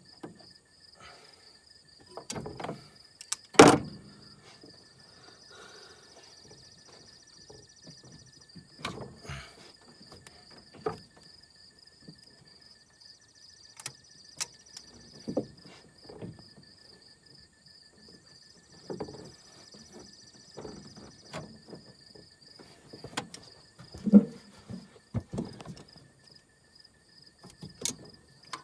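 Scattered clanks, clicks and knocks of hand tools and parts being handled during work on a leaking fuel line, with two sharp louder knocks, one a few seconds in and one near the end.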